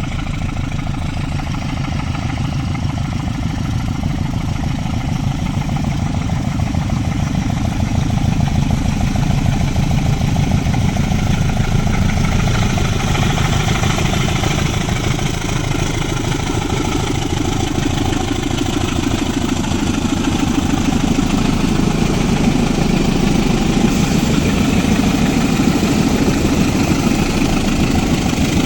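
Diesel locomotive engines of a loaded ore freight train running, a steady heavy rumble that grows a little louder about a third of the way in.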